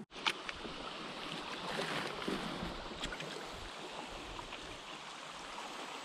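Steady rushing and lapping of water, with small splashes and ticks through it.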